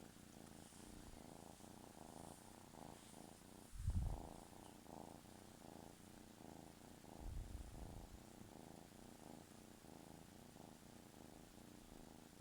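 Kitten purring in a steady rhythm, with a low thump about four seconds in and a softer one around seven and a half seconds.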